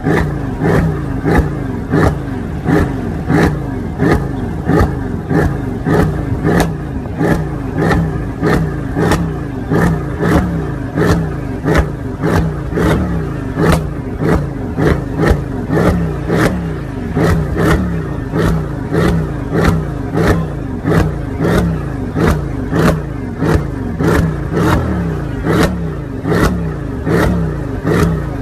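Mercedes CLS 63 AMG V8 revved over and over in quick throttle blips, about one and a half a second, each rev ending in a sharp crack.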